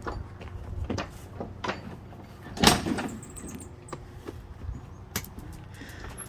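Scattered clicks and knocks, with one louder thump about two and a half seconds in.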